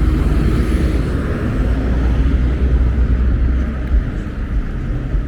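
Steady low rumble of motor vehicles, with a continuous haze of road noise.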